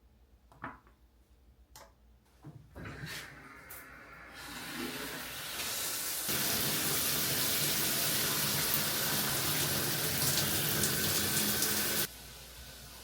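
Running water, like a tap or sink, building up over a few seconds and then running steadily before it stops abruptly near the end; a few clicks and knocks come before it.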